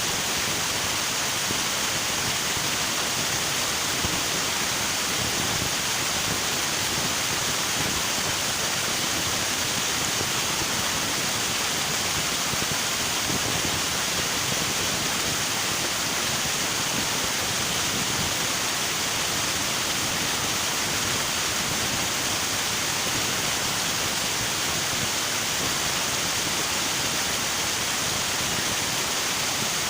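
River water rushing in a steady, even roar of noise, with no distinct splashes or changes.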